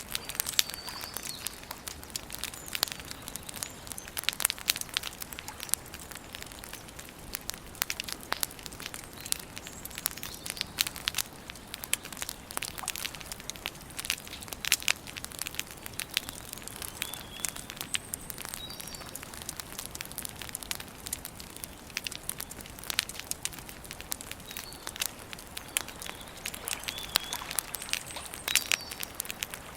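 Campfire burning, the wood crackling and popping in a dense, irregular run of sharp snaps. A few faint bird chirps come in now and then.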